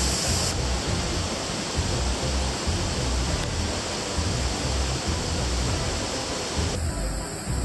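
Steady rush of fast-flowing river water and a waterfall, an even roar with a deep rumble underneath. The sound changes abruptly shortly after the start and again about seven seconds in.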